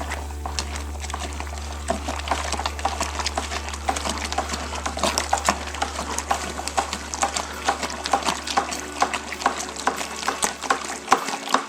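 Wort being stirred hard in a plastic fermenting bucket with a long spoon: liquid sloshing and many quick, irregular knocks and scrapes of the spoon against the bucket. A steady low hum runs underneath and stops near the end.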